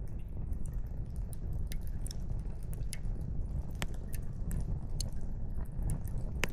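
Wood campfire crackling: burning firewood gives irregular sharp pops and snaps over a steady low rumble.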